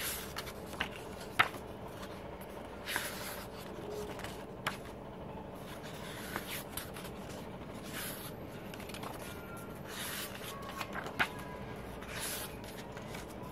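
Hands handling album packaging: short rustles and scattered sharp clicks and taps, the loudest click about a second and a half in.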